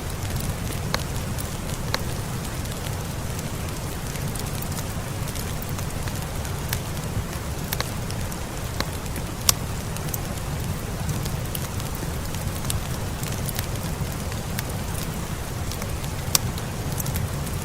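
Steady rain with a low rumble, mixed with a fireplace crackling in scattered sharp pops, the loudest about nine and a half seconds in and again near the end.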